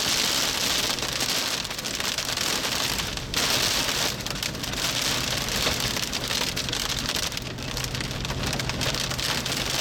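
Hail and heavy rain pelting a vehicle: a dense hiss of countless small hits that swells about three seconds in, with a low steady hum underneath.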